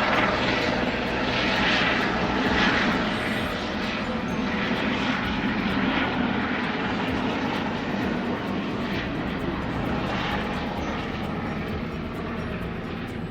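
Helicopter flying over: a steady engine and rotor noise with a fast low pulsing, swelling a little in the first few seconds and easing off near the end.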